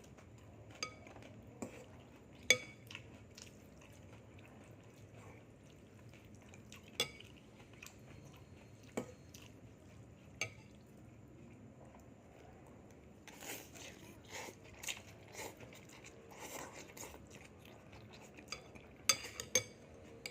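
Cutlery clinking against a dish every few seconds, with crunchy chewing of food in the second half and a quick run of clinks near the end.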